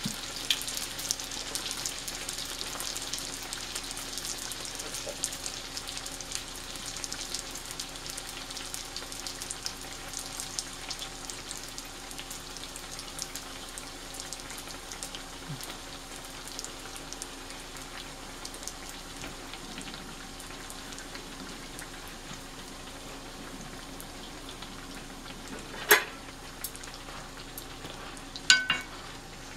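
Whole wheat dough frying in hot oil in a skillet: a steady crackling sizzle that eases slightly over time, over a faint steady hum. Near the end, two sharp clicks as a metal utensil turns the dough in the pan.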